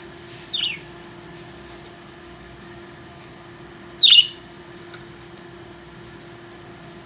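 A small pet parrot gives two short chirps, each a quick downward-sweeping call, the second one louder about three and a half seconds after the first. A steady low hum runs underneath.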